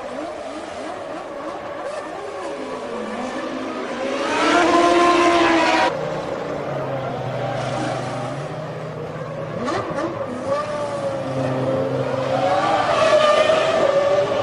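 1999 Formula One cars' V10 engines running, their pitch rising and falling; one grows loud about four seconds in and cuts off abruptly near six seconds, and another rises in pitch and grows loud near the end.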